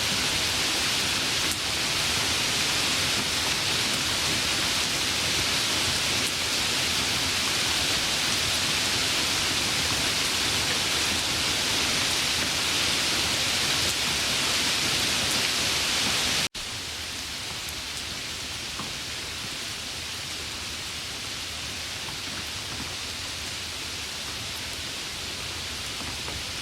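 Heavy rain falling in a steady, dense hiss. About two-thirds of the way through it cuts abruptly to a quieter, softer stretch of rain.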